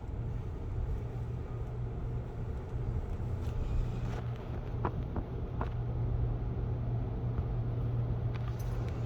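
Car engine running at a slow crawl, heard from inside the cabin as a steady low hum, with a couple of faint clicks around the middle.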